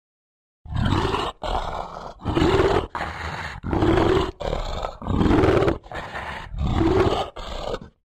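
Brown bear cubs nursing from their mother, making the loud, rhythmic nursing hum: starting about a second in, about five cycles of a louder hum that rises and falls, each followed by a softer, breathier phase.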